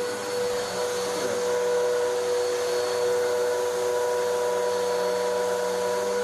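Bissell vacuum cleaner running steadily on carpet, a constant motor whine over the rush of air.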